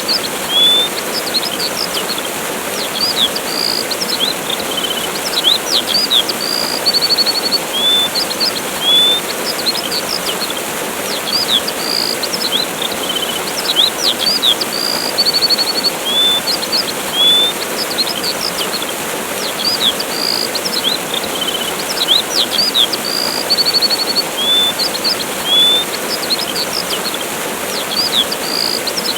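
Steady rush of a waterfall with small birds chirping over it: short high chirps, whistled notes and a brief trill, the same run of calls repeating about every seven seconds.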